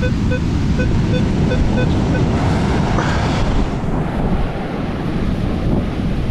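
Minelab Equinox 800 metal detector giving a string of short, irregularly spaced beeps in the first two seconds: an unsteady target response, a jumpy nickel-range signal. Beneath it is steady surf, with wind on the microphone and a wave washing in about three seconds in.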